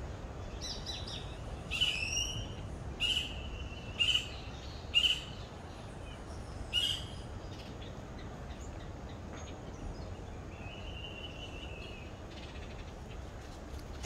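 Birds calling: a run of six short, sharp calls about a second apart, then after a pause one longer, even call.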